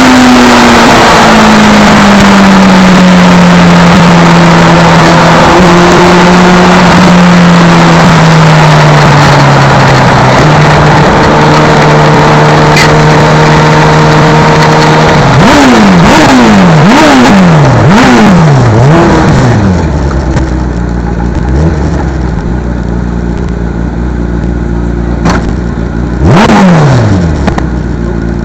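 Race car engine running loud at a fast idle whose pitch slowly sinks and then holds. It is then blipped about five times in quick succession before settling to a quieter idle, with one more short blip near the end.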